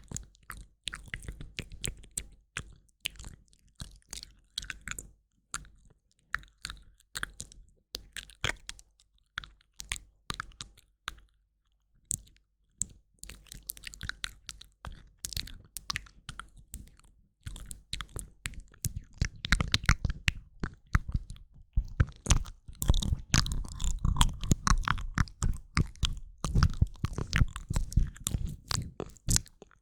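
ASMR mouth sounds: a long run of quick wet clicks and smacks. They are sparse and fairly quiet at first, with a short pause near the middle, then come denser and louder over the last third.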